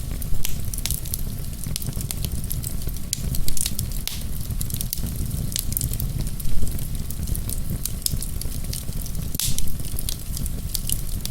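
Wood fire crackling in a fireplace, with a constant patter of small crackles and a few louder pops, about one every three seconds, over a steady low rumble.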